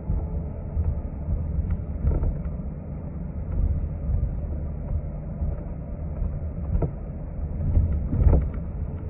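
Inside a moving city transit bus: a steady low rumble of engine and road noise, with a few short rattles or knocks from the cabin.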